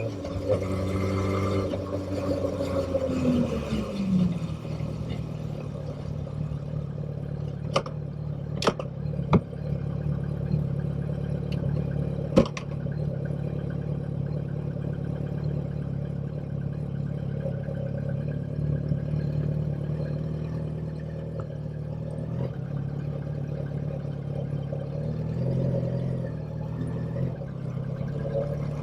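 Motorcycle engine slowing down, its pitch falling over the first four seconds, then running steadily at a low, even speed like an idle. A few sharp clicks come around the middle.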